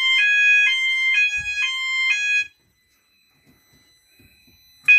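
Fire alarm sounder, set off by breaking the glass of a manual call point, sounding a loud two-tone alternating alarm that switches pitch about twice a second. It cuts off about two and a half seconds in, then sounds again briefly near the end.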